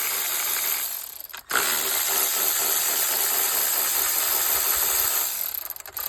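Power tool running as it spins out the 8mm intake manifold bolts: a short run, a brief stop about a second in, then about four seconds of steady whirring that fades near the end.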